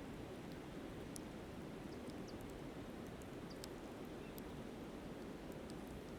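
Steady rush of a flowing river, with a campfire crackling in scattered small, sharp pops over it.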